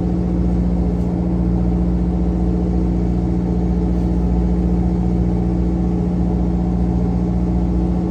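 Trawler's engine running at a steady speed, an even, unchanging drone.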